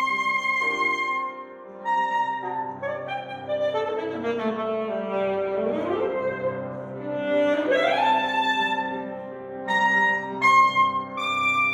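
Saxophone and piano playing a classical duo. The saxophone holds long high notes. Midway it slides down in pitch and sweeps back up in a glissando, over moving piano notes.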